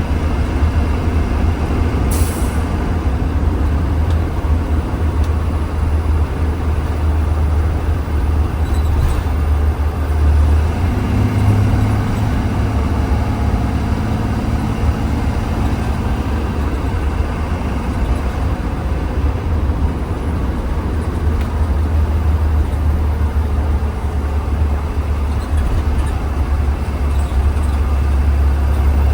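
2020 Blue Bird Vision school bus heard from inside while riding: a steady, loud low engine drone that changes pitch about eleven seconds in, with a short hiss of air about two seconds in.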